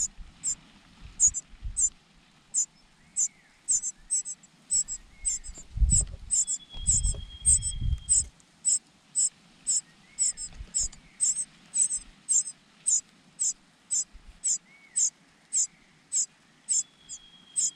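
Cuckoo chick begging for food: a steady run of short, very high-pitched calls, about two to three a second. A dull low rumble comes in about six seconds in and lasts a couple of seconds.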